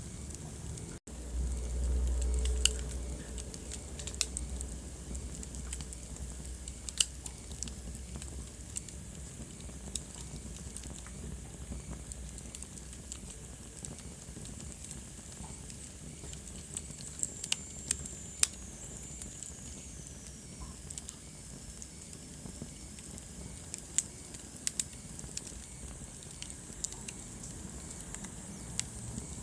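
Wood fire burning in a fireplace, crackling with irregular sharp pops and snaps. A low rumble follows a brief dropout about a second in, and a faint high whistle slowly falls in pitch around two-thirds of the way through.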